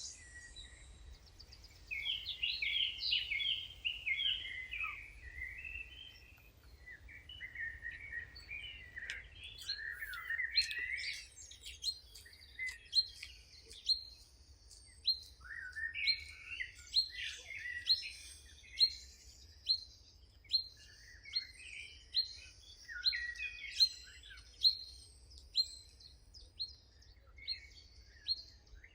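Several songbirds singing: a warbling song over the first ten seconds or so, then a sharp call repeated about once a second among other chirps and trills.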